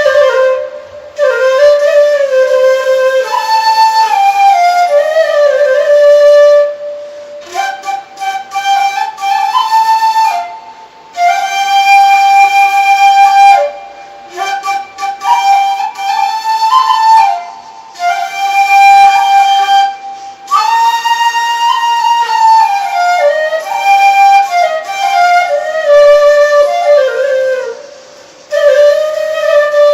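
Solo flute playing a slow melody, one note at a time, in phrases separated by short pauses.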